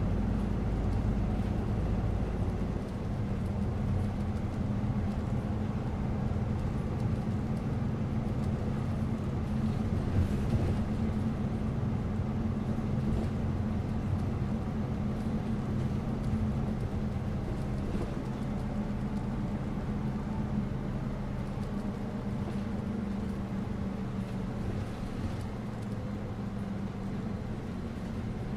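Bus on the move: a steady low engine hum over road noise, with a brief knock about ten seconds in.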